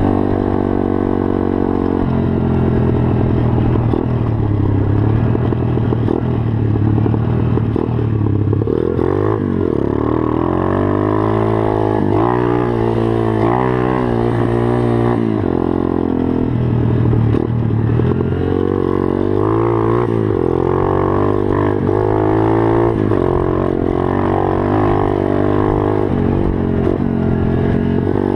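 Pit bike engine running continuously, its pitch rising and falling again and again as the throttle is opened and closed, with the quickest swings in the second half.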